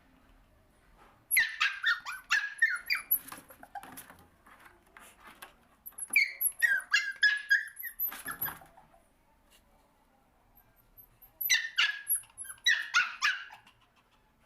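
Puppy squealing and yipping in short high-pitched cries in three bouts, excited at the prospect of food.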